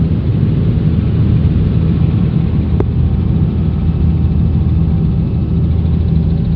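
Helicopter engine and rotor noise: a loud, steady low drone.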